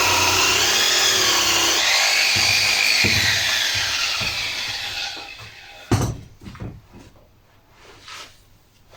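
Power tool spinning a wire brush against a metal exhaust silencer, its pitch wavering as the load changes, cleaning the surface. It winds down about five seconds in, then a sharp knock and a few light clicks follow as the work is handled.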